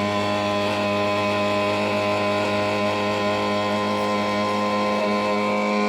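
Fully automatic washing machine running with a steady electrical hum made of several tones. It holds even throughout, with no knocks or changes.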